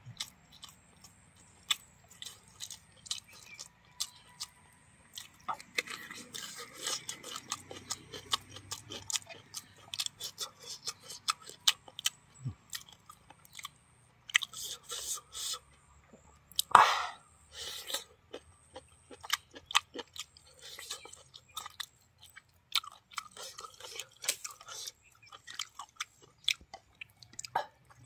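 Close-up mouth sounds of a person eating by hand: chewing with many irregular wet clicks, smacks and crunches as mouthfuls of rice and buffalo meat curry are bitten and chewed, with one louder noise about seventeen seconds in.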